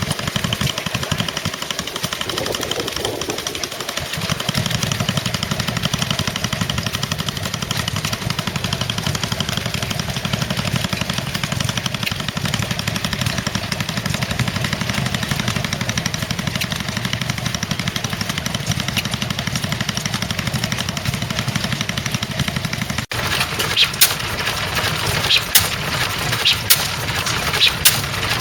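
Stationary engines running steadily. After a break about 23 s in, an engine gives a string of sharp, irregular exhaust cracks.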